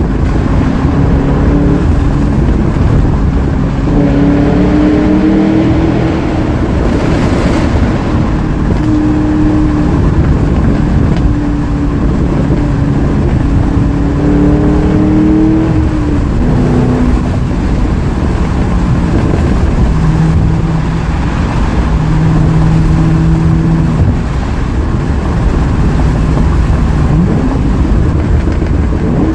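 2007 Ford Mustang GT's 4.6-litre three-valve V8 exhaust, through FR500S axle-back mufflers, heard from inside the moving car. The engine note climbs and drops several times as the car is driven hard, then runs steadier at a lower pitch in the second half.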